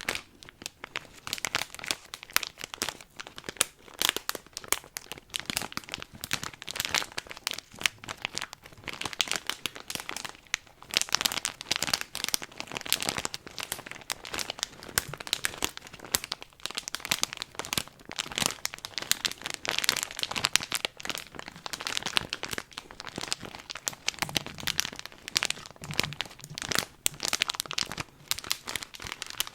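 Crinkly material being crumpled and handled close to the microphone: a dense, continuous run of sharp crackles.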